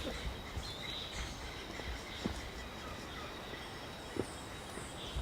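Rainforest ambience: a steady high-pitched insect drone, with a few short falling bird chirps in the second half and a couple of soft knocks.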